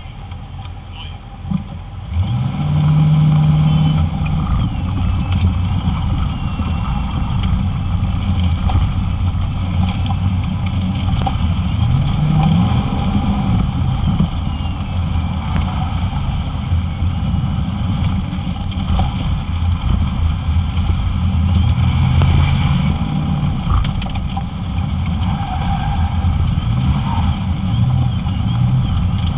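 Corvette's V8 engine pulling away about two seconds in, then revving up and down again and again as the car accelerates and slows through the turns of an autocross course.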